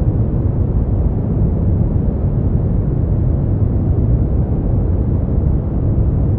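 Steady, unchanging sleep-aid noise that is deep and rumbling, with most of its weight low and no high hiss, more like brown noise than true white noise.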